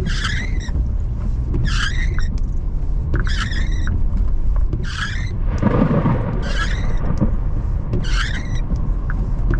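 Steady rumble of a car's road and engine noise inside the cabin, with windshield wipers squeaking across wet glass at an even beat, about one stroke every second and a half. A short noisy swell comes about six seconds in.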